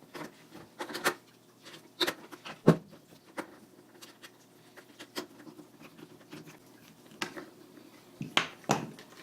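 Scattered clicks and knocks of skateboard parts and tools being handled while a wheel is fitted onto a truck. The loudest knock comes about two and a half seconds in, and two more come close together near the end.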